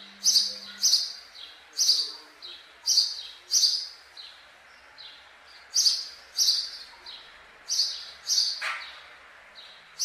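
A songbird calling over and over in short, sharp, high chirps, one or two a second, each trailed by a fainter, slightly lower note. About nine seconds in there is one brief, lower, rougher sound.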